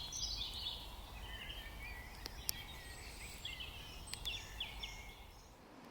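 Small birds singing in quick, overlapping warbling phrases over a low outdoor rumble, with a few faint ticks.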